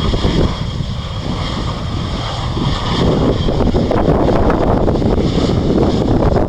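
Gusty wind rumbling and buffeting on the microphone, with a faint steady jet-engine whine from an arriving Airbus A319 underneath.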